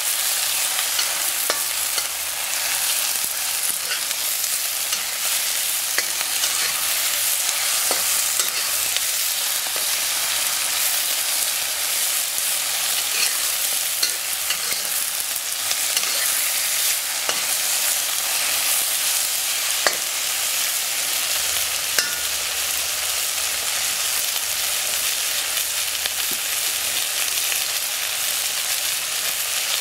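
Sliced peppers, tomato and sausage frying in oil in a wok, a steady sizzling hiss, with a few sharp clicks of a metal ladle against the wok.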